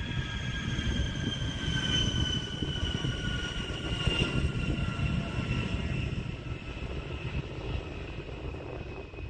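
Jet aircraft engine whining over a low rumble, the whine slowly falling in pitch and the sound easing off as it passes.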